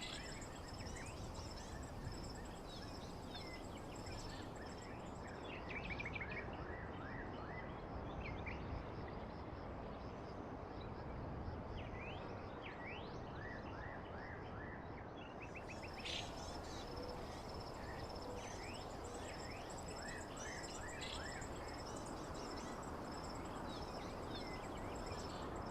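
Nature ambience: birds chirping in short, quick falling calls over a steady high insect trill, with an even background hiss throughout.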